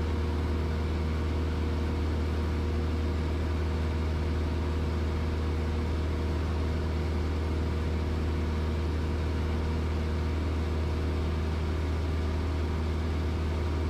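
Cessna 172S Skyhawk's four-cylinder Lycoming IO-360 engine and propeller running steadily in flight. It is a constant low drone with a few steady tones over it.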